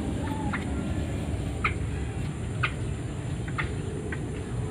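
Short, single clucking notes of a fowl-like bird, about one a second, over a steady low background rumble.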